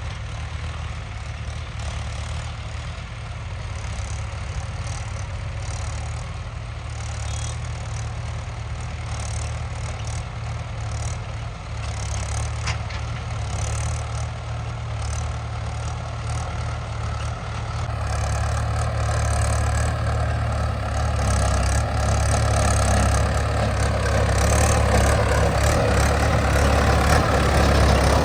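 Heavy diesel engine running steadily. About eighteen seconds in it gets louder, and a steady whine joins it.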